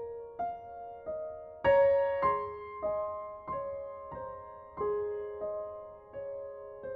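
Slow, gentle solo piano music: single notes struck about every two-thirds of a second and left ringing, with a louder chord about two seconds in.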